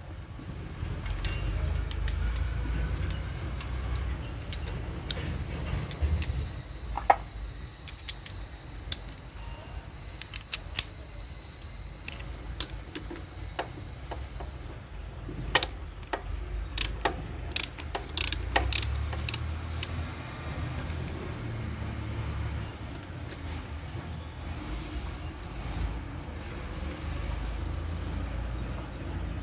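Metal hand tools and engine parts clinking and knocking during motorcycle engine disassembly: scattered sharp metallic clicks, with a quick run of them about halfway through, over a low steady rumble.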